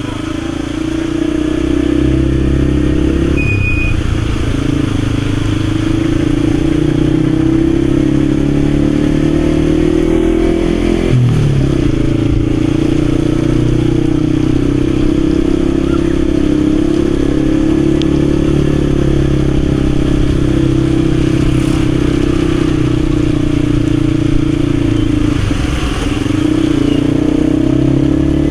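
Yamaha XSR155's single-cylinder 155 cc engine running steadily while riding. The engine pitch dips briefly a few seconds in, near the middle and near the end, then picks up again.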